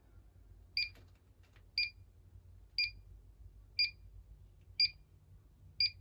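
Inficon Gas-Mate combustible gas leak detector beeping while it sniffs gas pipe fittings for a leak: short, high-pitched beeps at a steady rate of about one a second.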